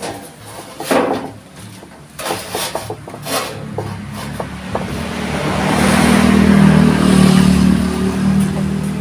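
A few sharp knocks and taps, then a motor-vehicle engine that swells to its loudest a few seconds in and eases off slightly near the end.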